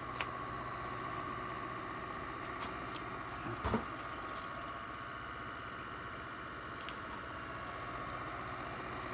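A 3D-printed pulse-motor magnet rotor spinning on magnetic bearings under power from its pulsed coil, running with a steady hum and whir. Its counterweights are off, so the wheel is out of balance and makes a slight audible wobble. There is one brief thump about three and a half seconds in.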